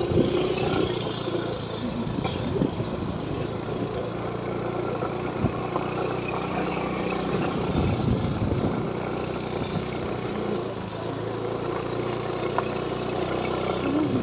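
Car engine running steadily while driving over a rough, rocky road, with a few short knocks and thumps from bumps.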